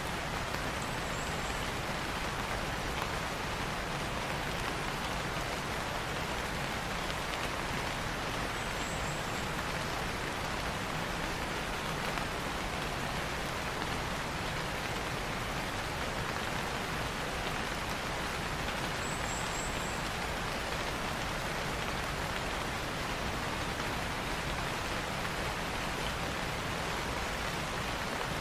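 Steady rain falling, an even, unbroken hiss, with a few faint high ticks about a second in, about nine seconds in and near twenty seconds.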